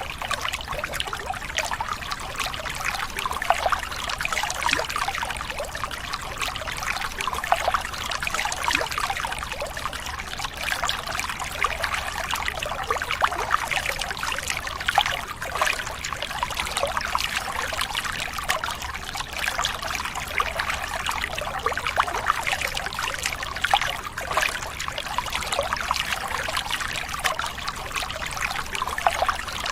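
Steady trickling, splashing water with a fine crackle, running evenly throughout.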